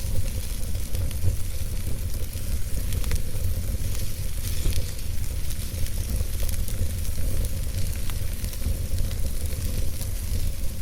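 Campfire burning, a steady hiss with frequent small crackles and pops scattered through it over a low rumble.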